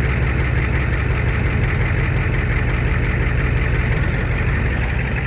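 A 1994½ Ford F-350's 7.3-litre turbocharged IDI V8 diesel idling steadily as it warms up after a cold start.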